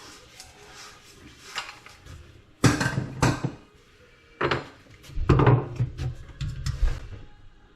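Hard objects clattering and knocking as they are handled, in two loud bunches: a short one about two and a half seconds in, and a longer run from about four and a half seconds in.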